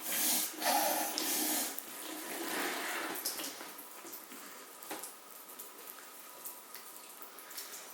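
Soft drink trickling and splashing, louder for the first two seconds, then a fainter fizzing crackle with small pops from popping candy in a mouthful of soda.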